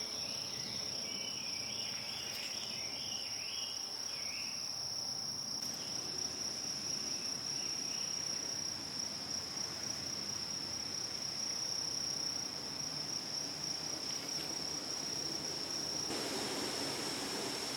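Insects trilling steadily in the forest as one continuous high-pitched tone, with a few brief chirps in the first three seconds and a rise in background hiss near the end.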